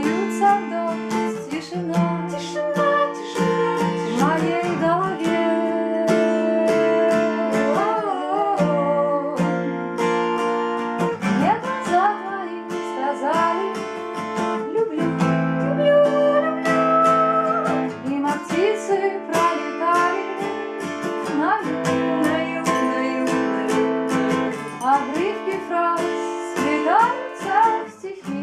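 Acoustic guitar strumming chords steadily, with a melody line over it that slides and wavers in pitch.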